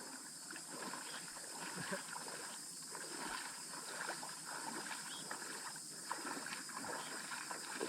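Steady high-pitched insect chorus of crickets, with faint scattered short calls of other animals over it.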